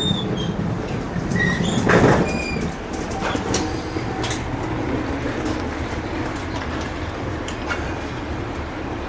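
Train running on rails, with a steady rumble, scattered clicks and a few brief high wheel squeals.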